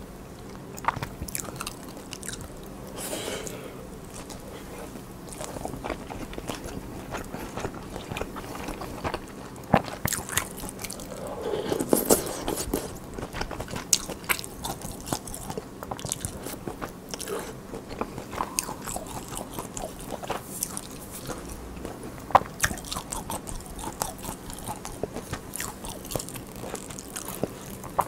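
Close-miked eating: chewing and biting mouthfuls of rice, with wet mouth noises and many small clicks, some of them likely the wooden spoon against the steel-lined rice bowl.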